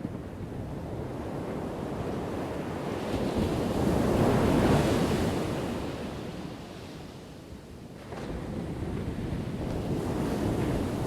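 Ocean waves breaking on a shore: one wave swells and crashes about four to five seconds in, washes back and fades, and the next comes in suddenly about eight seconds in.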